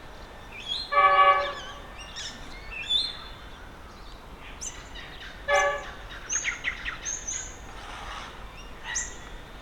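Birds calling and chirping, with a mix of short high chirps and quick trills. Two short, harsh calls, the loudest sounds, come about a second in and again just past halfway.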